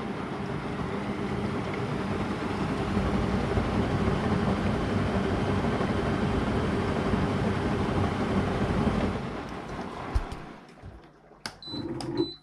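AEG Lavamat Turbo washer-dryer running its lint-rinse with water rushing through it, a steady noise that stops about nine seconds in. Then come a few sharp clicks and two short high beeps.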